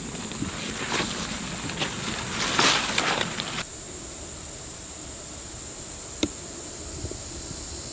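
Rustling and scraping of grass and brush as someone crawls slowly through vegetation, stopping suddenly about halfway through, over a steady high-pitched insect buzz. A single sharp click comes near the end.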